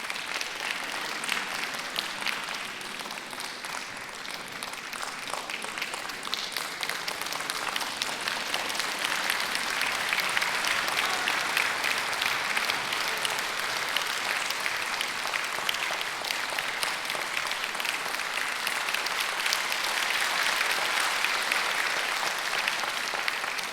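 Audience applauding steadily, the clapping growing louder about a third of the way through and again near the end.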